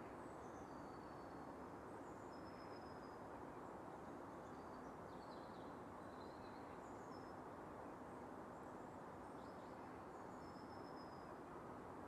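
Faint outdoor nature ambience: birds giving short, high chirps and thin whistles here and there over a steady, low background hiss.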